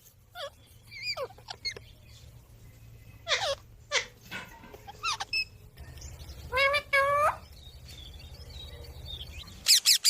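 Pet green parrot calling: scattered short squawks and chirps that sweep in pitch, two longer calls that rise at their ends about two-thirds of the way through, and a quick burst of sharp calls at the end. A faint low hum runs beneath.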